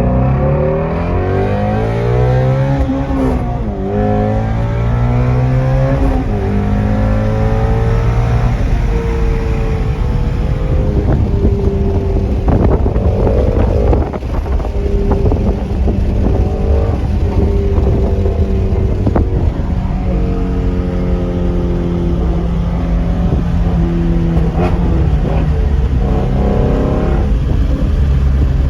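2016 Ford Shelby GT350's 5.2-litre Voodoo flat-plane-crank V8 running and being revved, its pitch climbing and falling repeatedly in the first few seconds, then held at several steady engine speeds with changes between them and a few short sharp cracks.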